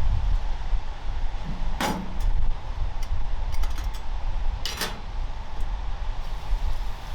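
Wind rumbling on the microphone, with two sharp snaps about three seconds apart and a few faint ticks between them.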